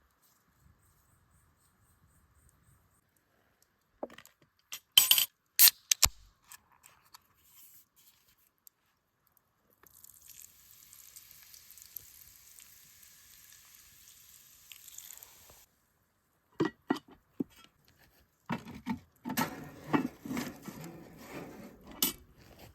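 Outdoor cooking and food-handling sounds: a few sharp clicks and knocks, then a steady hiss for several seconds, then a busy run of knocks and clatter near the end.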